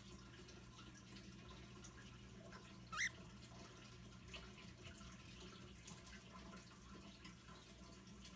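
Faint trickling and dripping of a fish tank filter's outflow splashing into a tank whose water has been lowered, over a steady low hum. About three seconds in, a cockatiel gives one short rising chirp.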